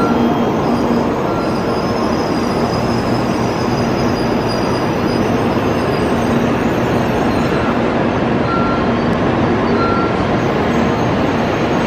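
N700-series Shinkansen train running slowly past along the platform, a steady rumble and rush of the passing cars with short high squeals now and then.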